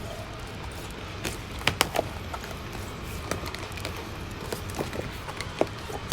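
Wood fire crackling in a fireplace: irregular sharp pops and snaps over a low steady hiss, with a few louder snaps.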